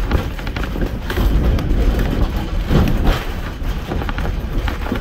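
Narrow-gauge passenger coach rolling along the track: a steady low rumble with irregular clicking and clattering of the wheels on the rails.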